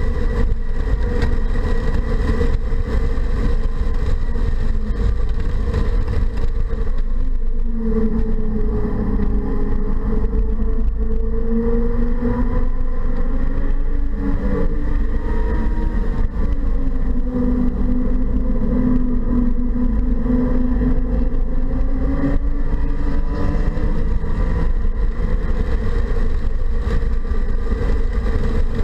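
2015 BMW 228i's turbocharged four-cylinder engine pulling hard at track speed, heard from inside the cabin over heavy road and wind rumble. The engine note falls and climbs again around a gear change midway.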